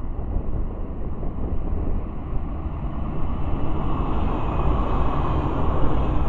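A train running in the distance, a steady rumble that grows somewhat louder in the mid range about four seconds in, with wind buffeting the microphone.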